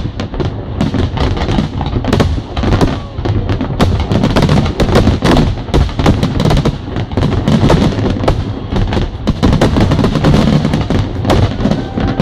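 Large aerial fireworks display bursting continuously, with many bangs and crackles in quick succession, over loud music.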